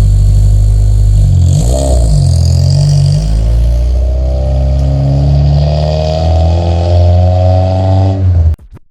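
Engine of an engine-swapped 1991 Honda Accord wagon running, with a quick rev up and down about two seconds in. From about four seconds in, its pitch climbs steadily as it accelerates, until the sound cuts off abruptly near the end.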